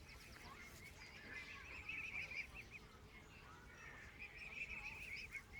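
Faint bird calls: two runs of quick, high chirps repeated several times a second, with softer sliding whistles between them.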